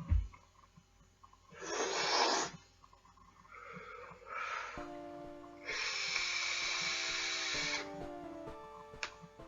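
Breathy hisses of vape vapor being drawn and blown out: a loud exhale, a softer draw, then a longer, louder exhale. Background music comes in about five seconds in and runs under the last exhale.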